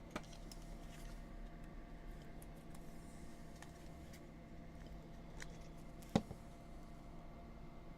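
Faint scattered clicks and light handling noises over a steady low hum, with one sharper click about six seconds in.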